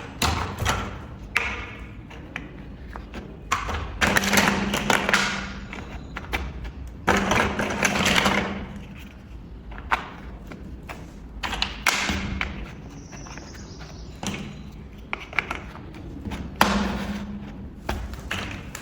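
Plastic building bricks clicking, tapping and knocking as they are handled and pressed together, with two longer stretches of rattling about four and seven seconds in.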